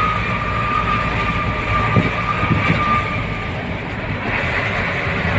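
A truck on the move, its engine and road noise running steadily, with a high steady whine that fades away about three and a half seconds in.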